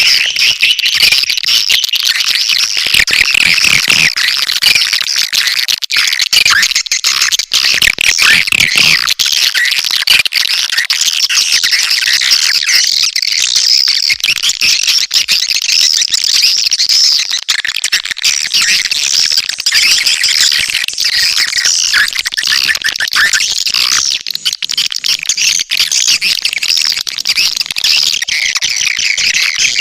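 Swiftlet lure call: dense, unbroken twittering and chirping of edible-nest swiftlets, the kind of recording played to draw swiftlets into a nesting house.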